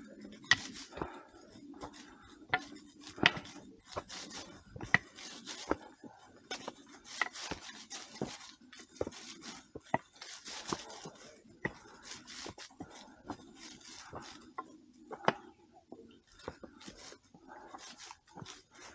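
Hikers' footsteps on a forest trail: irregular steps with scuffs and knocks, roughly one or two a second.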